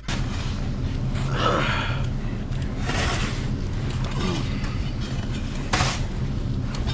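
A stuck truck's engine running with a steady low hum as it tries for traction in snow. Short falling whines come twice, and there is a sharp click near the end.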